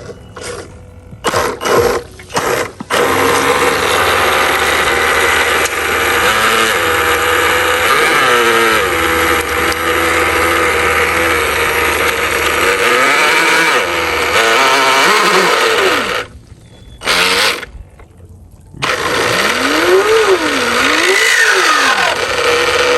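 Small RC jet boat motor whining in short throttle blips, then running steadily, its pitch rising and falling with the throttle. It cuts out twice for a moment about two-thirds of the way in, then comes back with swooping up-and-down changes in pitch.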